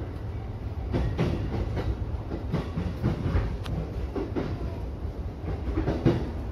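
Electric commuter train running along the track, heard from inside the front cab: a steady low rumble with irregular clacks and knocks as the wheels pass over rail joints.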